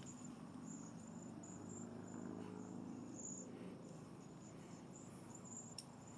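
A flock of birds feeding on berries, calling steadily with many short, high, thin notes that overlap.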